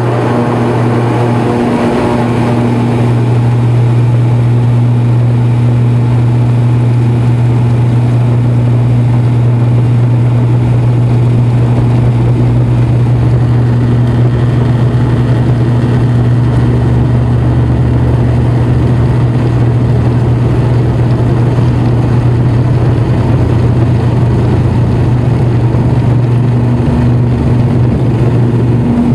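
Airliner's engines running at takeoff power: a loud, steady drone with a strong low hum.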